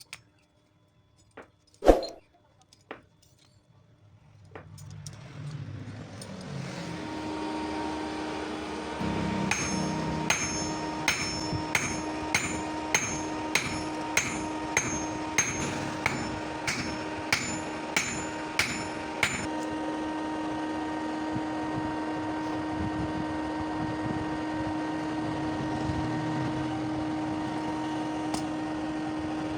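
Steel being hammered at about two blows a second for around ten seconds, over a steady machine hum that builds up in the first few seconds and keeps running after the hammering stops.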